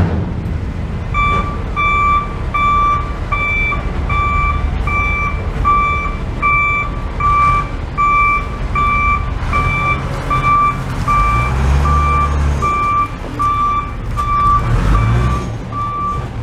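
A truck's reversing alarm beeping at a steady pace, about three beeps every two seconds, over the low rumble of its engine, which swells for a moment midway.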